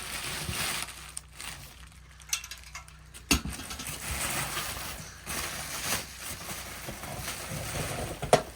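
Objects being handled and set down while a box is unpacked: scattered clicks and knocks, with one sharp knock about three seconds in.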